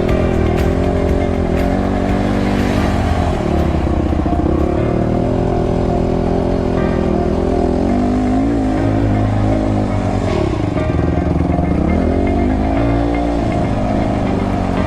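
Motocross bike engine being ridden hard, its pitch rising and falling over and over with throttle and gear changes.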